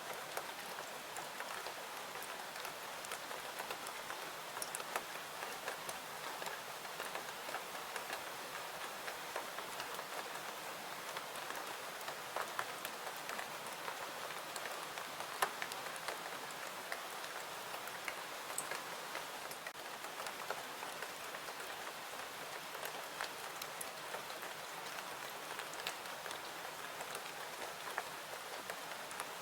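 Steady rain falling, an even hiss with scattered sharp ticks and pops of drops landing.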